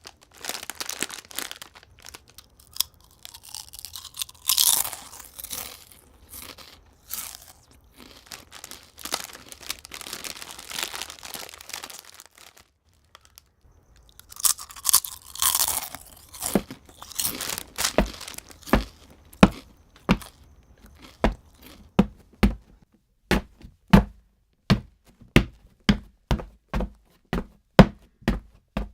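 Foley sound effects: crunching, crackling and rustling with two swishes, about 4 and 15 seconds in, that fall in pitch. Then, from about two-thirds of the way through, a steady series of separate thuds comes at roughly one to two a second.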